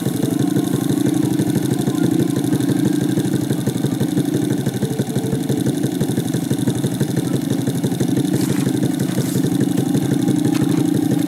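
Trail motorcycle engine idling steadily with an even, rapid firing beat.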